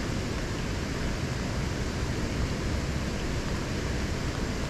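Steady wind and rain: a broad rushing hiss with low, fluttering wind buffeting on the microphone.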